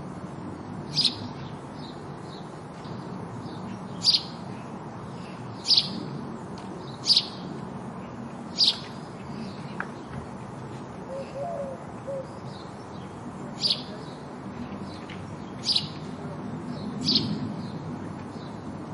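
House sparrow chirping: short, sharp single chirps every second or two, with a pause of a few seconds midway, over a steady background noise.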